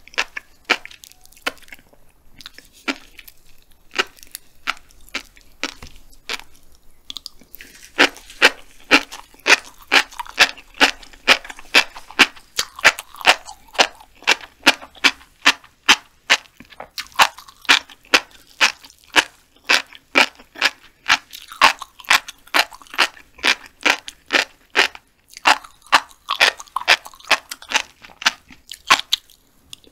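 Close-miked chewing of a mouthful of black flying fish roe (tobiko): a run of tiny crunches and pops as the eggs burst between the teeth, sparse and softer at first, then an even two or three crunches a second from about eight seconds in.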